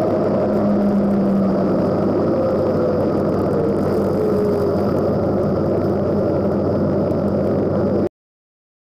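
Small-block Chevy V8 of a Camaro bracket drag car running steadily at idle, heard from inside the cabin, with a thin whine that slides slowly down in pitch over the first few seconds. The sound cuts off suddenly about eight seconds in.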